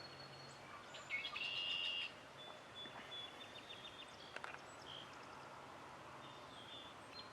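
Songbirds singing and calling, with thin high whistled notes and short trills over a faint outdoor background. The loudest song comes about a second in and lasts about a second.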